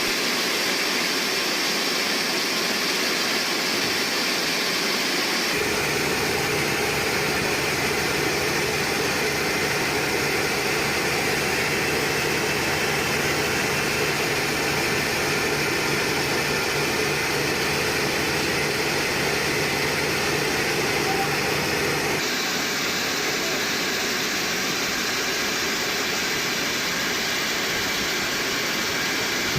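Sawmill machinery running steadily, a continuous mechanical drone with hiss. A low engine-like hum joins abruptly about five seconds in and drops away again about 22 seconds in.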